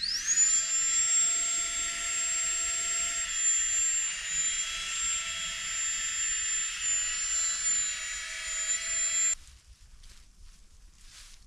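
High-pitched whine of a small electric motor spinning up within the first half second, then running steadily with slight wavers in pitch. It cuts off abruptly near the end, leaving faint rustling steps.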